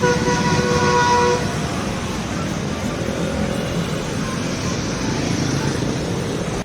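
A vehicle horn sounds one steady blast for about a second and a half, then a vehicle's engine and traffic-like rumble runs on steadily.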